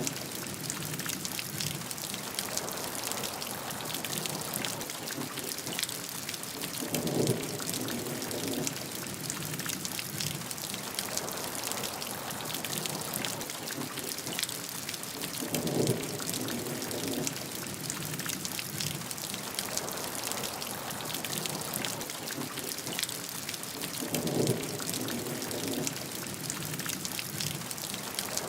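Steady rain falling on surfaces, a continuous hiss with many individual drops ticking through it. A short, lower-pitched swell rises out of it about every eight seconds, three times.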